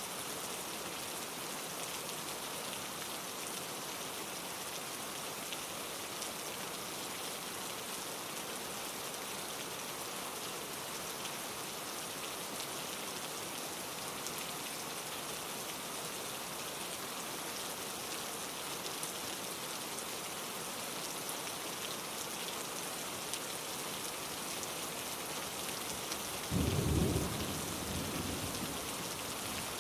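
Steady rain falling on leaves, an even hiss of drops throughout. Near the end comes a brief low rumble lasting about a second and a half.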